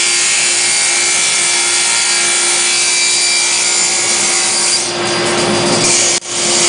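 Water pouring through a waterfall liquid-cooling reservoir with its pump running: a steady rushing hiss over a steady hum. The sound shifts about five seconds in and drops out briefly near the end.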